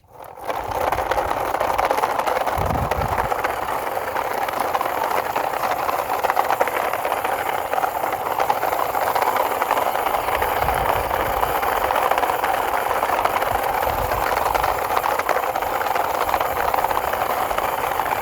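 Plastic toy trailer truck being run along the ground, its wheels and body rattling in a steady stream, with a few low bumps.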